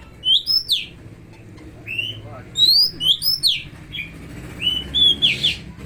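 Cucak ijo (greater green leafbird) singing loud whistled phrases of quick, sweeping notes, its song carrying oriental magpie-robin (kacer) mimicry.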